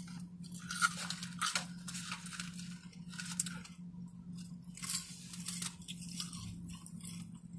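Close-miked mouth sounds of someone eating fries: chewing and lip smacking in irregular clusters, over a steady low hum.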